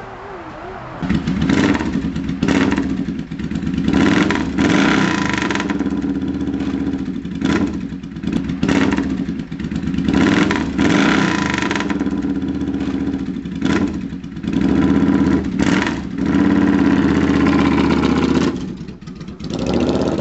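Suzuki Marauder VZ800's V-twin engine starting about a second in, then revved up and let back down again and again, with the bike moving off near the end.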